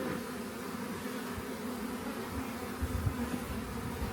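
Honey bees from an open hive buzzing in a steady hum, with a brief low thump about three seconds in.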